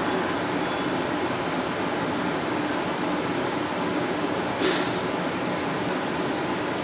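Perth electric suburban train running, heard from inside the carriage as a steady noise of wheels on track, with a brief hiss about two-thirds of the way in.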